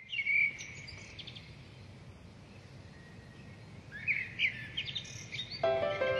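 Small birds chirping in short clusters of quick high calls, once at the start and again about four seconds in, over a steady low background noise. Music comes in near the end.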